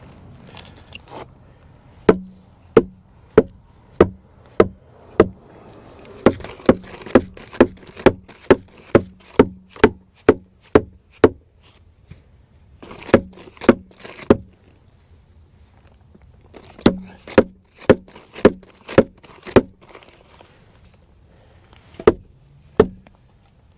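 Hammering: runs of sharp blows at about two a second, each with a short ring, broken by pauses of a second or two between runs.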